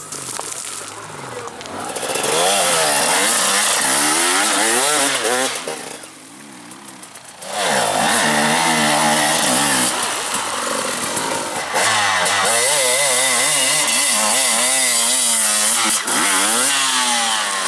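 Enduro dirt bike engine revving up and down over and over. It is quieter for the first two seconds and drops away briefly about six seconds in.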